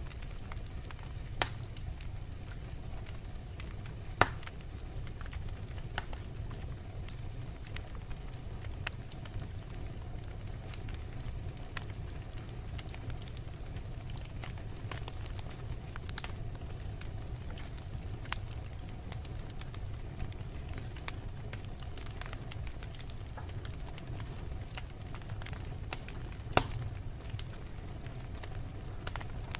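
Wood fire burning in a fireplace: a steady low rumble of flames with scattered crackles and sharp pops from the burning logs, three of them louder than the rest.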